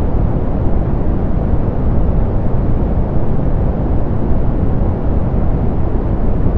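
Steady soft pink noise: an even, unchanging rush with most of its weight in the low end and the highs rolled off.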